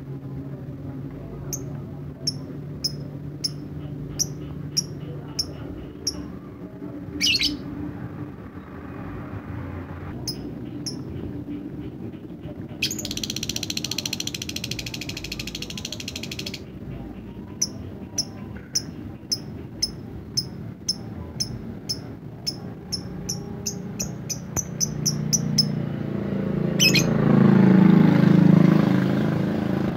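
Lovebird singing in the 'ngetik' style: runs of short, sharp, high ticking chirps at about two to three a second, with a buzzy rattling trill of a few seconds in the middle. A low rumble swells near the end.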